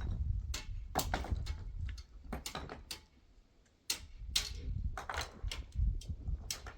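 A string of irregular knocks and clicks over a low rumble, with a brief lull about three seconds in.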